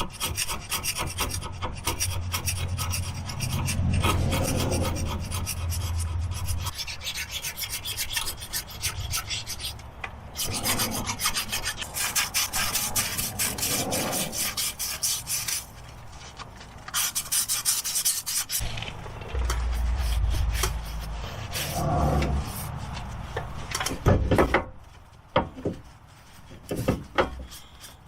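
Abrasive sanding screen scrubbed rapidly back and forth over the aluminium steering knuckle's hub mounting area to clean it, with a couple of short pauses and a few sharp knocks near the end.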